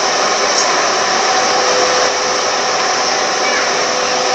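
Car air-conditioning blower fan running steadily: an even, loud rush of air with a faint steady hum underneath.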